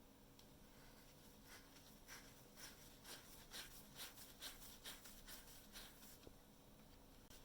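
Faint repeated scraping strokes, about two a second, over a low steady hum.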